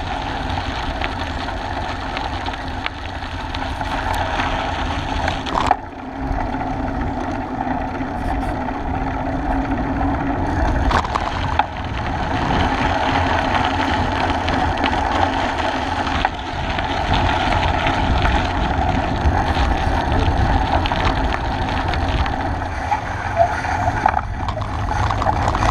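Steady riding noise picked up by a bike-mounted camera: rumbling tyre and wind noise with scattered small knocks and rattles.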